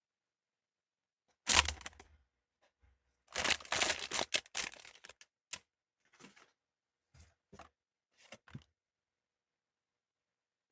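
Toy blind-box packaging being opened by hand: a sharp crack about a second and a half in, then a short burst of tearing and crinkling, followed by a few quieter clicks and rustles.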